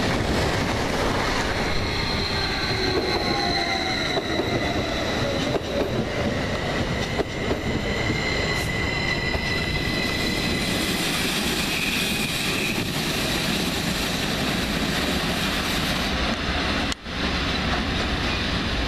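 SBB passenger train rolling over the rails with a steady rumble and clatter, its wheels squealing in high, drawn-out tones through the first two-thirds.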